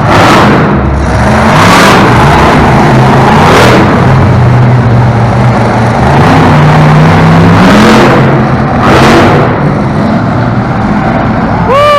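Monster truck engine revving hard in repeated loud surges, its pitch rising and falling, with a long climb about seven to eight seconds in.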